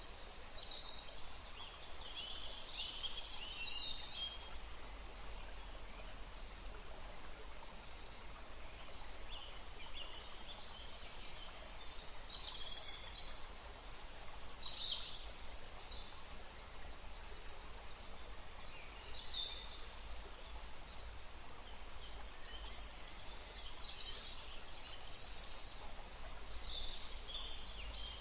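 Songbirds calling in short, high chirps and phrases scattered throughout, over a steady rushing background with a low rumble.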